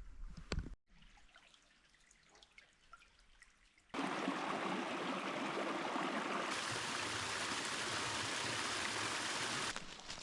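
A creek's water running steadily. It starts abruptly about four seconds in, after a few seconds that are nearly quiet apart from a few faint clicks at the start.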